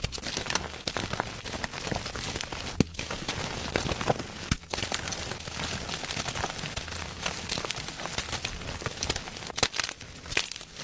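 Gym chalk being crushed: dense, continuous crunching and crackling, with two short breaks.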